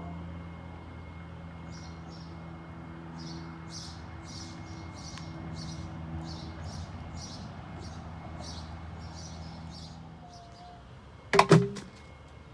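A bird chirping repeatedly, short high chirps about two or three a second, over a steady low hum. Near the end come two sharp knocks in quick succession, louder than anything else.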